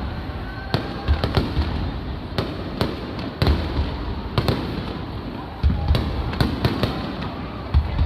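Aerial fireworks shells bursting in a rapid, irregular series of sharp bangs, about two a second, over crowd chatter.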